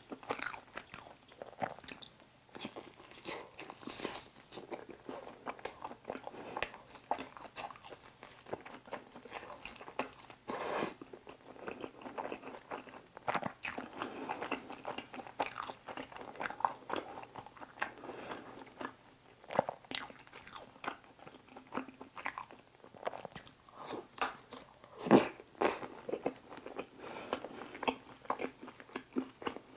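Close-miked mouth sounds of a person eating pizza dipped in tteokbokki sauce: irregular biting and chewing with wet smacks, with one sharper, louder sound about 25 seconds in.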